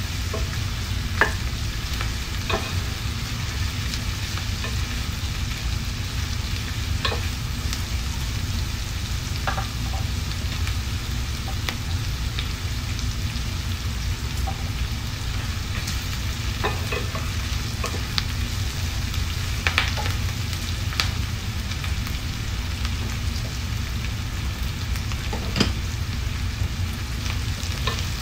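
Sliced onion, ginger and green chillies sizzling in hot oil in a stainless steel pan, with a wooden spatula stirring and now and then knocking against the pan in short clicks. A steady low hum runs underneath.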